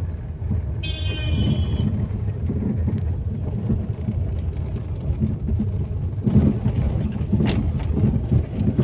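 Tata Zest being driven over a rough unpaved road, heard from inside the car: a steady low road-and-tyre rumble with irregular knocks from the front left. This is the steering noise the mechanic traces to a loose steering rack bush and worn tie-rod ends.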